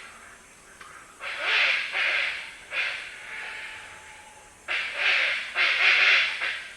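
Black hornbill giving harsh, hoarse growling calls: a run of rasping bursts, each about half a second long, with a short pause after the first pair and two more near the end.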